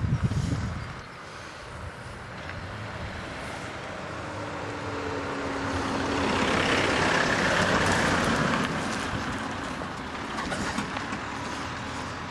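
A motor vehicle drives past on a road: its engine and tyre noise builds to a peak about seven or eight seconds in, then fades as it moves away. There are a few heavy thumps at the very start.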